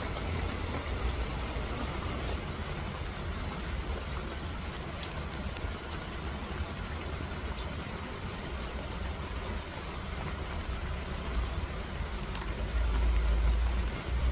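Steady rain falling, an even hiss with a few faint drop ticks, over a low rumble that grows louder near the end.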